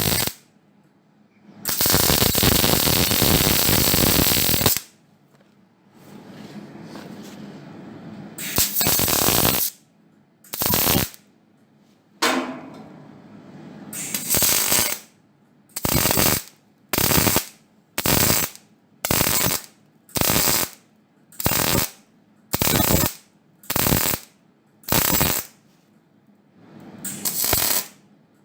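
MIG welder laying a series of short stitch or tack welds on sheet steel: one weld of about three seconds, then a steady run of roughly one-second bursts of crackle, about one a second, each starting and stopping sharply.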